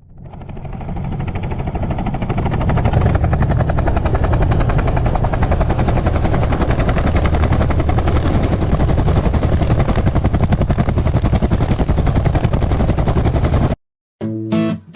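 Helicopter running, its rotor making a rapid, even chop over the engine. It fades in over the first two seconds and cuts off suddenly near the end, and strummed acoustic guitar music starts just after.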